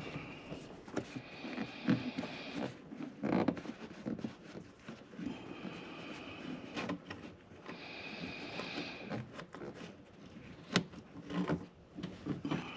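Plastic seal clips and cowl trim being worked loose by hand and with a pry tool: scattered clicks, knocks and scrapes.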